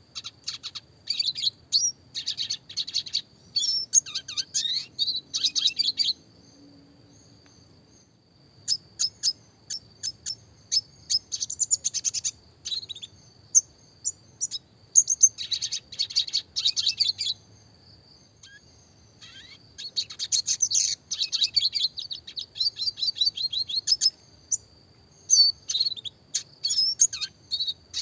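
Red siskin (Spinus cucullatus) singing: a rapid twittering song of quick chirps and trills in bursts, with short pauses between phrases.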